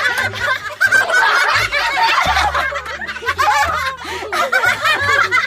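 A group of adults laughing together, several voices overlapping in loud, continuous laughter.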